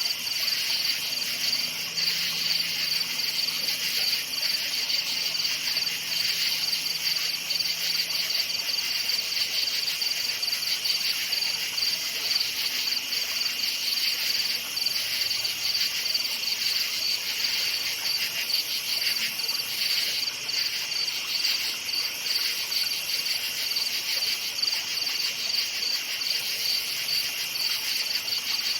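A chorus of crickets chirping at night, a dense, steady trill of rapid high-pitched pulses that never lets up.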